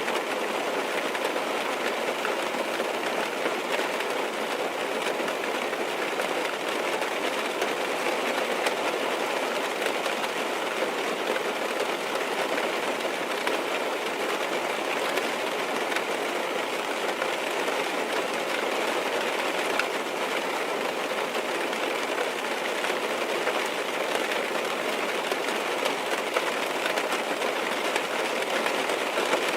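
Heavy rain drumming steadily on a car's roof and windows, heard from inside the cabin: a dense, even patter with faint scattered drop ticks.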